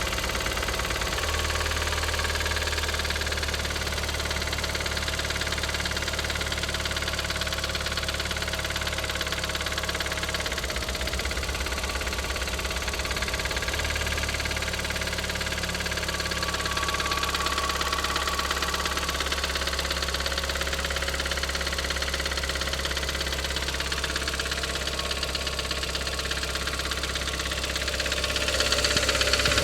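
Audi TT 225 hp BAM 1.8-litre turbo four-cylinder running at idle with a clatter, which new lifters, a new cam chain tensioner and a complete timing job have not cured. The engine gets louder near the end.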